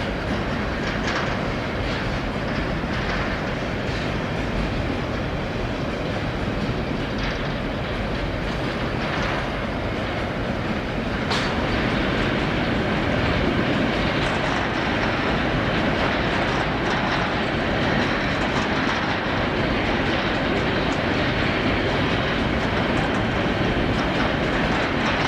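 Freight train cars rolling past, wheels clattering over rail joints in a steady run of clicks and rumble. A brief high wheel squeal is heard about halfway through.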